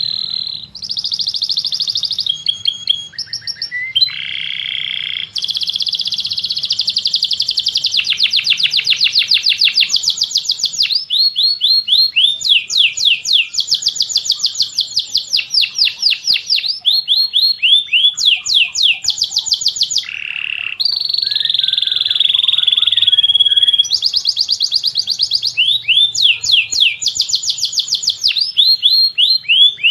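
Songbird singing a long, loud song of rapid repeated chirps and trills, broken by a couple of brief pauses.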